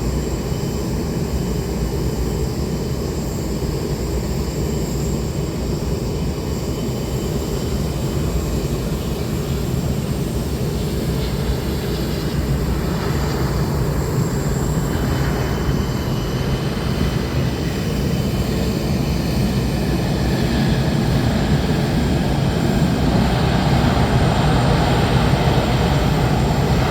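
Jet airliner engines with a steady low rumble, growing louder toward the end, with a thin high whine coming in about halfway through.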